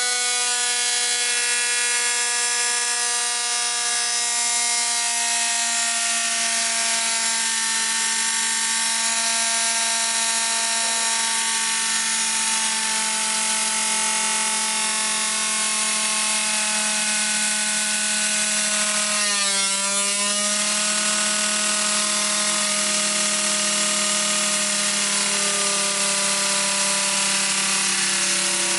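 LEGO Technic piston engine spun by a 24 V drill motor, running at high speed with a steady whine that slowly drifts lower in pitch. About two-thirds of the way through, the pitch wavers briefly before settling again.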